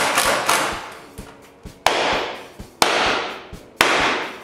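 Three sharp blows about a second apart as wooden wall planks are nailed up, each ringing out briefly through the room, with faint background music underneath.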